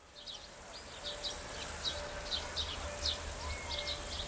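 Birds chirping outdoors: many short, quick falling calls, several a second, over a steady low rumble; the sound fades in at the start.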